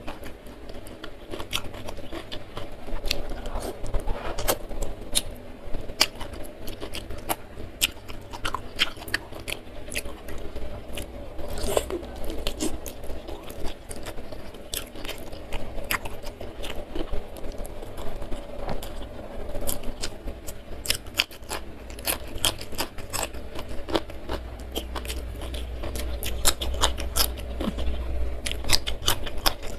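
Close-miked chewing and biting of fried chicken, with many small crisp crunches and wet mouth clicks.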